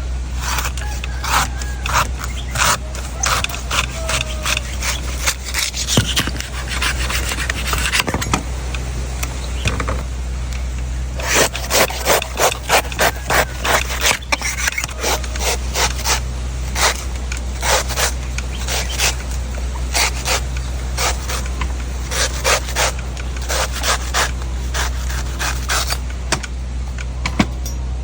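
Knife strokes cutting into a coconut: a string of sharp chops and scrapes, at times in a quick even run of about three a second, over a steady low hum.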